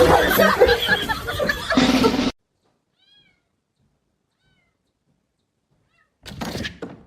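Cats meowing loudly over one another for about two seconds, then cutting off suddenly. A few faint chirps follow, and a short burst of knocks and rustling comes near the end.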